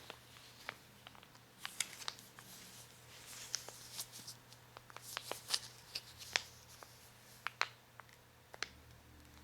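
Close-miked handling sounds: irregular sharp clicks and crackles, with short scratchy rustles about a third and halfway through.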